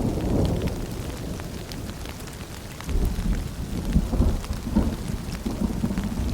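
Rain falling and dripping, with low rolling thunder that eases off early and rumbles back in about three seconds in.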